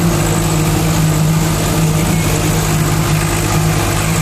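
Tractor diesel engine idling steadily, with an even low firing pulse.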